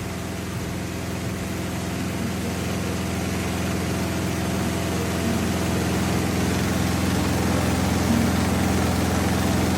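Samsung 8.5 kg washing machine spinning, with a loud, steady hum the owner likens to a jet engine, growing slowly louder. He takes the noise for a fault in the new machine.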